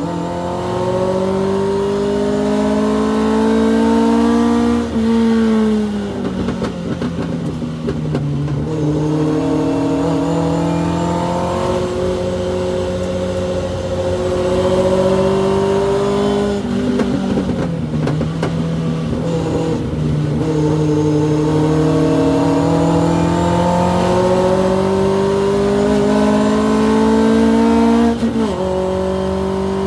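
Hillman Avenger race car's four-cylinder engine heard from inside the car under racing load, revving up and dropping back in pitch several times as it works through gears and corners.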